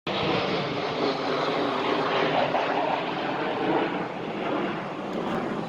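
Aircraft engine noise from a plane flying over, a steady wash of sound that eases slightly about four seconds in.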